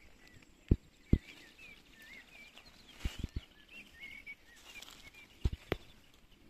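Small songbirds chirping in many short, high, warbling notes. A few brief dull knocks sound close by, twice in the first second or so, in a cluster near the middle and twice near the end.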